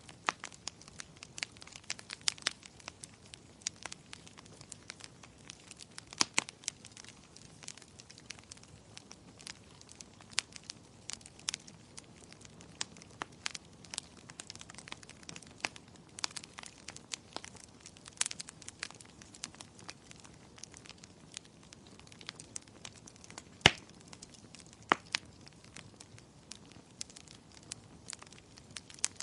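Wood fire crackling in a fireplace: irregular sharp pops and snaps over a soft low hiss, with one louder pop near the end.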